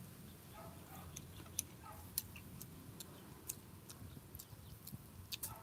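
Faint, irregular sharp clicks and ticks from eating rambutan: mouth sounds and fingers working the fruit's rind.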